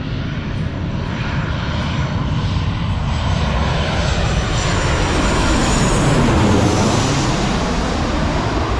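Jet airliner passing low overhead, its engines growing louder to a peak about two-thirds of the way through and then easing, the whine sweeping down in pitch as it goes by.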